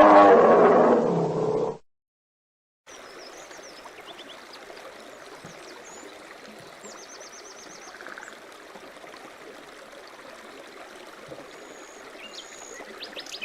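A large animal's loud roaring call, which cuts off about two seconds in. After a second of silence comes a steady background hiss with small birds chirping and trilling over it.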